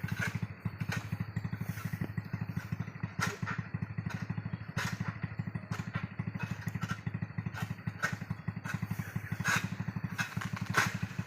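Honda Revo Absolute single-cylinder four-stroke motorcycle engine in a homemade car, running steadily with an even, rapid putter. Sharp knocks or clatter are heard now and then.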